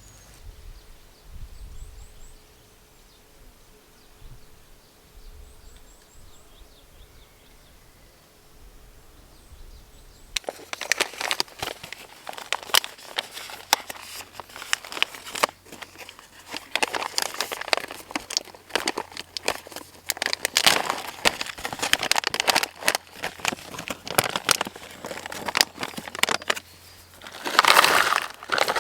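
Plastic wrapping crinkling and being crumpled by hand, a dense crackling rustle that starts abruptly about ten seconds in and is loudest near the end. Before it there is only quiet outdoor air with a few faint bird chirps.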